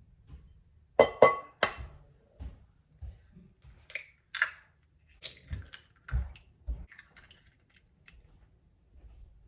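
Kitchen utensils knocking and clinking against a bowl: three sharp, ringing clinks about a second in, then a run of lighter taps and scrapes.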